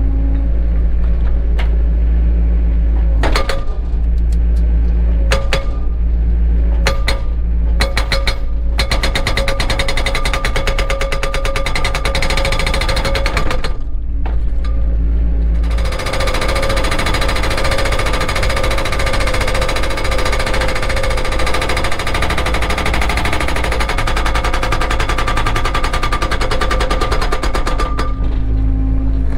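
Cat 307 excavator's diesel engine running steadily under rapid, evenly spaced hammering. A few separate knocks come first. The hammering starts about nine seconds in, breaks off briefly around the middle, then resumes and stops about a second before the end.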